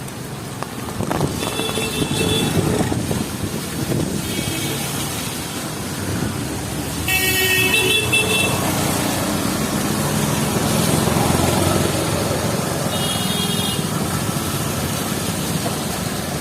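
City street traffic with vehicle horns honking: short honks about 2 and 4 seconds in, a longer, louder one about 7 seconds in, and another near 13 seconds. Under them run engines and a steady hiss of rain and wet road.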